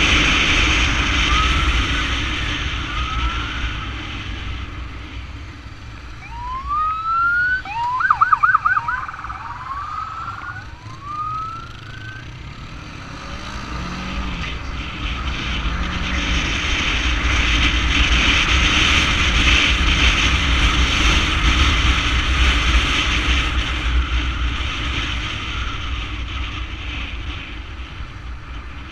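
Ambulance motorcycles riding in convoy, with steady engine and wind noise on the microphone. Their emergency sirens give several short rising whoops during the first dozen seconds and a brief fast yelp about eight seconds in.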